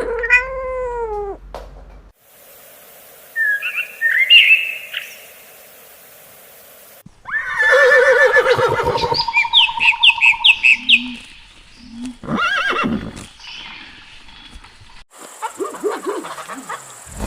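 A string of separate animal-call clips: a cat's meow at the start, birds chirping a few seconds in, then a horse whinnying loudly with birds chirping over it, and more short animal calls near the end.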